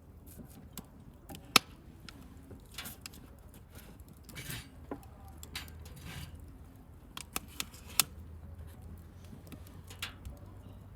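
Wood campfire crackling: irregular sharp pops and snaps over a low steady rumble of the flames, with two louder pops, one about a second and a half in and one near eight seconds.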